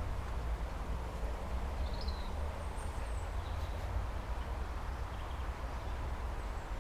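Wind buffeting the microphone as a steady low rumble, with a few faint, short bird chirps above it.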